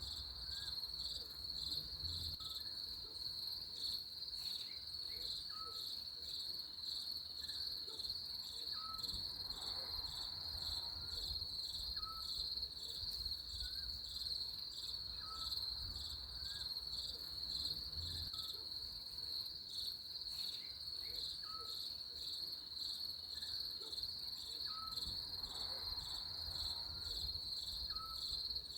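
Crickets trilling steadily in a continuous high-pitched, rapidly pulsing chorus, with faint short chirps repeating about every second and a half beneath it.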